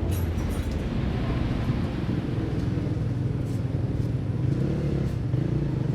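Steady low rumble of a motor vehicle running, with a few faint ticks over it.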